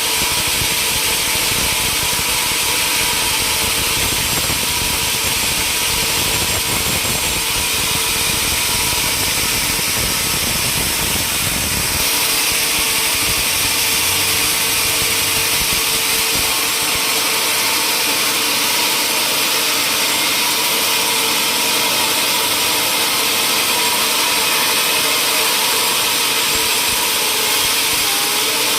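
Sawmill machinery running steadily: a continuous loud hiss with a constant hum. About twelve seconds in the sound changes abruptly and the low rumble drops away.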